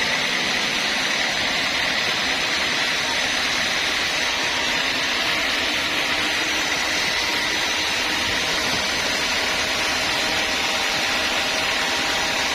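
Sawmill saw machinery running steadily: a constant, even mechanical noise with a faint steady hum and no breaks.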